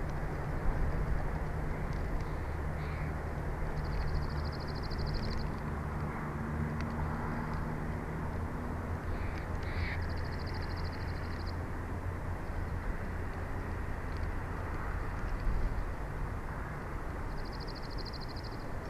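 Steady wind rushing on the outdoor nest-camera microphone over a low hum. A small songbird's short, high, even trill repeats about every six to seven seconds.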